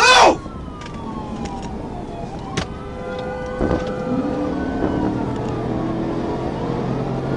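Police car siren wailing in slow rising and falling sweeps over the cruiser's engine and road noise during a high-speed pursuit, with a short, loud downward sweep right at the start. About four seconds in, a lower engine note comes up and holds steady.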